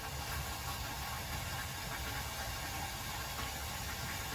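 Wood fire burning in a homemade downdraft wood stove: a steady low rumble and hiss of the draft, with a few faint crackles, as the flames pour downward through the firebox.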